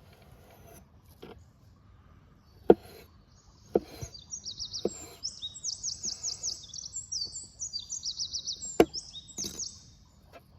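A songbird singing a fast run of high, trilled notes from about four seconds in until near the end. A few sharp knocks sound alongside it; the loudest comes just under three seconds in, and another near the end.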